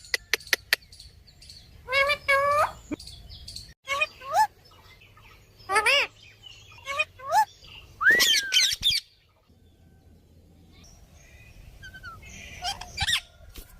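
Parrots calling: a series of short, loud, arching calls, with one longer call about eight seconds in and a quieter stretch after it. A few sharp clicks come right at the start.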